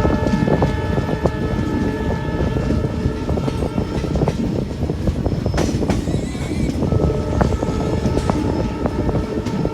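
Passenger train running on the rails, a steady rumble with rapid wheel-and-rail clatter. The horn of its WDP4D diesel locomotive is sounding at the start and fades out within the first second or two.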